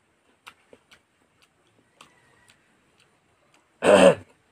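Faint wet clicks and smacks of a mouth chewing rice and curry eaten by hand. About four seconds in comes one loud, short voiced exhalation, a reaction to the heat of a fresh green chilli that he then calls very spicy.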